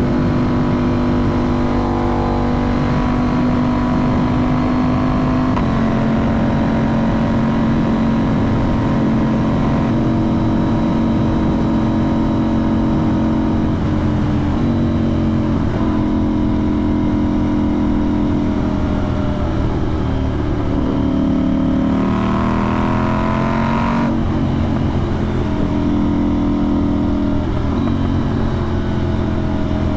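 2025 KTM 990 Duke's parallel-twin engine running through a budget Temu aftermarket exhaust with the soundbox deleted and the catalytic converter left in, on the move. The engine note shifts pitch in steps several times, falls away about twenty seconds in, and then climbs again.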